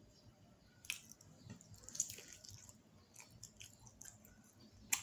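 Faint close-up chewing of fried chicken, with a few sharp clicks: about a second in, at two seconds, and a louder one near the end.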